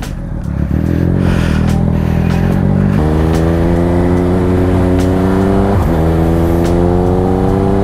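Triumph Speed Triple RS three-cylinder engine through an SC Project titanium exhaust, pulling under acceleration. Its pitch is steady at first, then climbs steadily from about three seconds in, with a brief dip near six seconds as it shifts up a gear before rising again.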